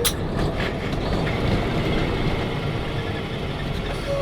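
Steady engine and road noise inside the cab of a moving truck, with a short click right at the start.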